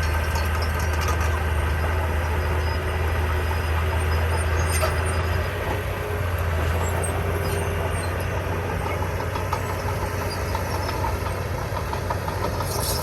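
Diesel engine of heavy earthmoving equipment running steadily, a constant low drone.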